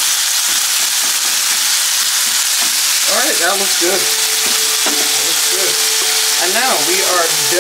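Ground chicken frying in a non-stick pan, giving a steady loud sizzle while a silicone spatula stirs it. A few short wavering pitched sounds rise over the sizzle about three seconds in and again near the end.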